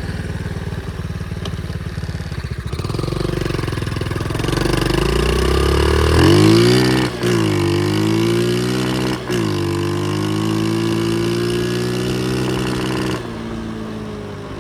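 Pit bike engine idling, then revving up as the bike pulls away, the engine note breaking off briefly twice as it shifts up through the gears. The throttle closes near the end and the note drops away.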